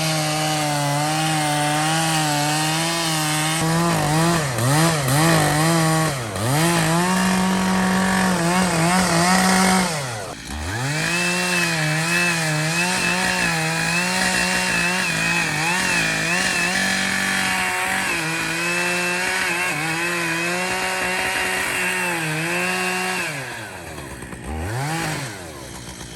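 Two-stroke chainsaw cutting through a thick elm trunk at high revs, its pitch wavering and sagging as the chain bogs under load. The revs fall sharply about ten seconds in and climb back, then drop off near the end with one short rev.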